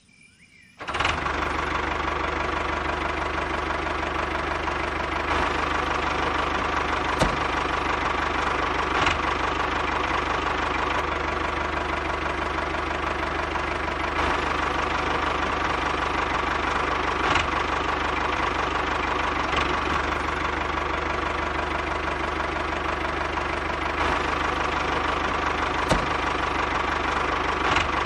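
A small motor starts abruptly about a second in and then runs steadily, with a few faint clicks.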